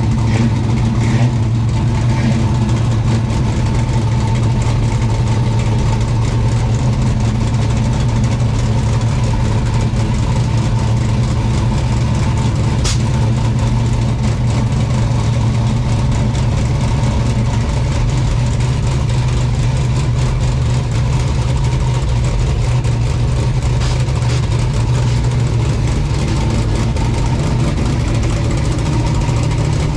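A car engine idling steadily with a low, even hum, and one brief sharp tick about thirteen seconds in.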